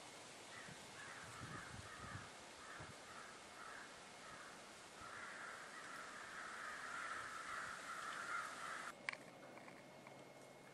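Faint, distant bird calls: a series of short calls repeated a few times a second, then a denser run of overlapping calls that stops abruptly about nine seconds in, followed by a couple of sharp clicks.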